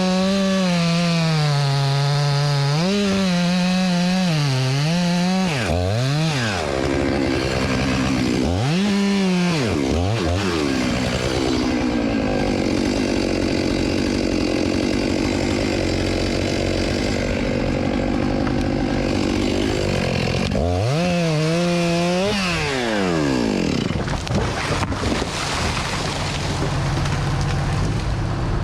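Two-stroke chainsaw running hard, its engine note dropping and recovering several times as it is throttled and loaded in the wood, with a steadier stretch of cutting in the middle.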